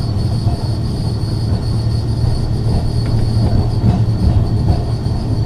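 Ex-Liverpool Corporation tram 869 running along the track, heard from on board: a steady low hum with a thin, steady high whine over it and a few light ticks from the wheels on the rails.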